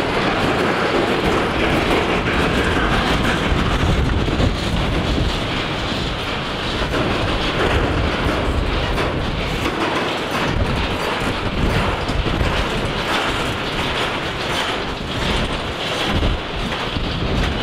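Freight train of autorack cars rolling past: a steady rumble of steel wheels on the rails, with a clickety-clack as the wheels run over rail joints.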